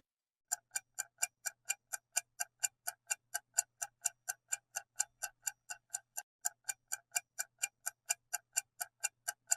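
Ticking clock sound effect counting down the time to answer a quiz question, with about four even, crisp ticks a second starting about half a second in.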